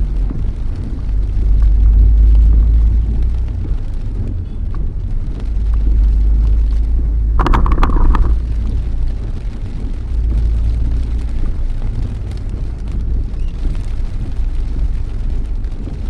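Steady low rumble of a car's road and engine noise heard inside the moving cabin. About halfway through, a short high tone sounds for under a second.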